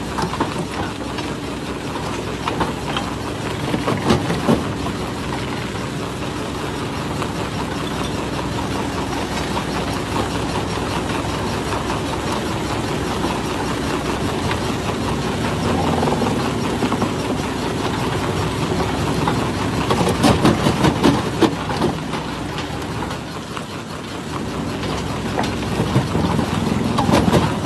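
Jaw rock crusher running with a steady mechanical drone as stone is crushed. Clusters of sharp cracks and knocks from breaking rock come about four seconds in, around twenty seconds in, and near the end.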